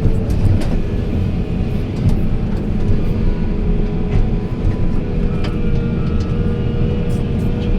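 Heavy diesel machinery running steadily with a dense low rumble, with scattered short clicks and knocks.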